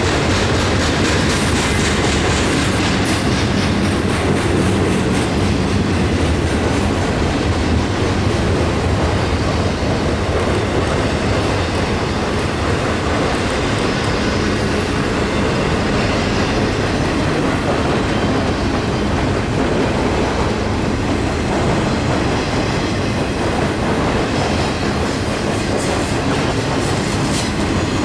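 Freight train cars rolling past at close range, a steady loud rumble of wheels on rail.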